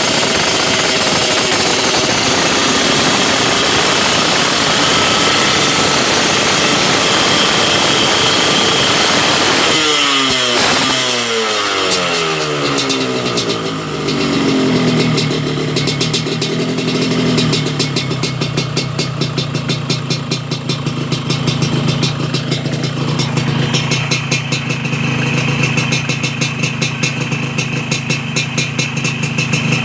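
Yamaha RX-King's two-stroke single-cylinder engine running through an aftermarket NoPHP 'udang lobster' exhaust, held at high revs. About ten seconds in the revs fall away and it settles into a steady, pulsing idle.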